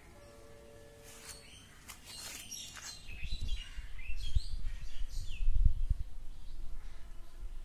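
Small birds chirping in short rising and falling calls, with a steady low tone for about a second and a half at the start. From about three seconds in, low rumbling thumps on the microphone are the loudest sound.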